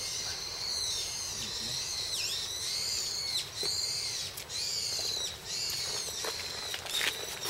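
Birds calling continuously in the trees: many high-pitched, rising-and-falling calls overlapping one another. A few footsteps on a path come in near the end.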